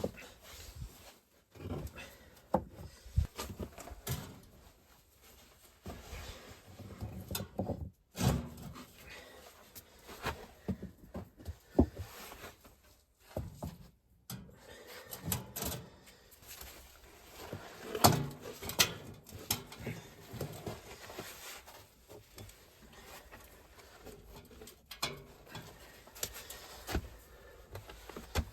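Irregular knocks and rustling from objects being handled close by, with a few sharper thumps, the loudest about 18 seconds in.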